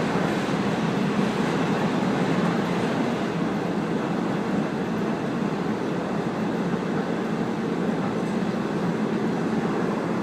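Steady running noise of the Sendai Kaze-kko diesel railcar moving along the line, heard from on board: an even rumble with no distinct clicks.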